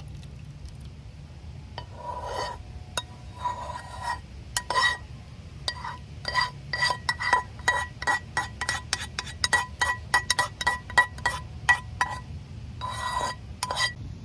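A metal spoon stirring soup in a pot, scraping around the pot and then clinking against it in a quick run, about three clinks a second, with the same ring each time, over a steady low hum.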